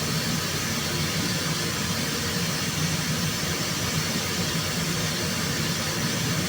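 Steady machine noise: an even hiss with a low hum beneath it, unchanging throughout.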